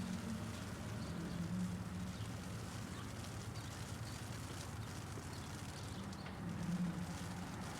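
City traffic ambience: a low hum of vehicle engines that swells about one and a half seconds in and again near the end, under a light, scattered ticking of hail.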